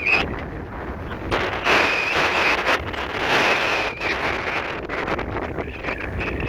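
Strong wind gusting and buffeting the microphone: a loud rushing noise that swells and eases, with a faint high whistle for a couple of seconds in the middle.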